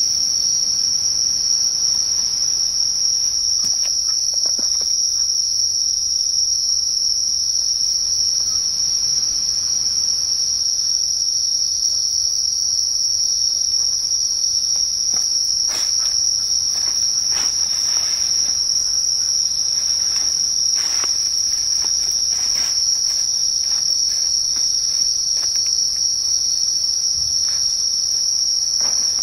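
Insect chorus: a loud, steady, high-pitched shrilling drone that never lets up, with a few faint clicks and rustles in the middle.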